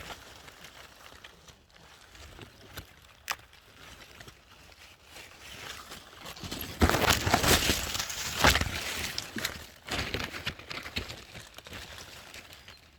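Rustling and crackling with scattered clicks, swelling loudest for a couple of seconds past the middle, then easing off.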